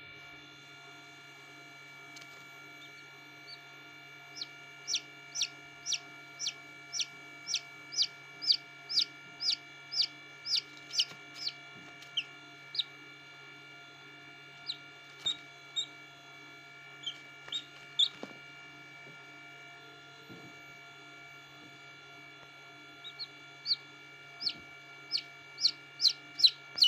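Aseel chicks peeping: runs of short, loud, high peeps that fall in pitch, about two a second, sparser in the middle and picking up again near the end. A steady hum runs underneath.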